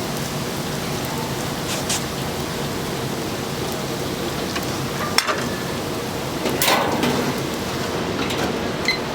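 Hot oil sizzling steadily as doughnuts deep-fry, with a sharp click about five seconds in and a brief louder swell of sizzle shortly after.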